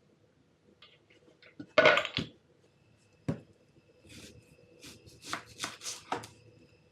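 Kitchen handling noises: a loud clatter about two seconds in, a single sharp knock, then a run of short scrapes and rustles. A faint steady high whine comes in about a third of the way through.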